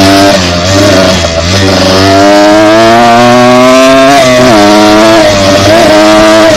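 Small dirt bike engine running hard under throttle. Its pitch climbs steadily for about two seconds, drops sharply a little past the middle, then rises and falls again.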